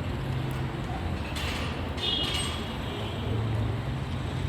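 Car engine running at low revs: a steady low rumble, with a brief hiss and a short high squeal about two seconds in.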